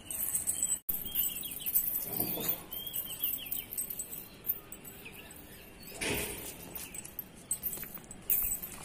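Small birds chirping in short calls, with two louder brief sounds about two and six seconds in.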